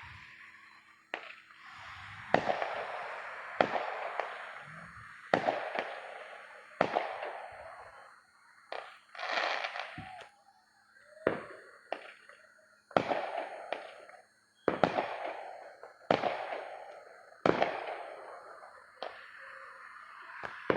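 Fireworks going off in a steady string, about fifteen sharp bangs roughly every second and a half, each trailing off in a hissing crackle.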